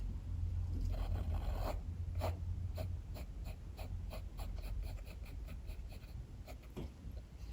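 Drawing strokes scratching on paper in quick, short, regular hatching, about five strokes a second, over a low steady rumble of strong wind.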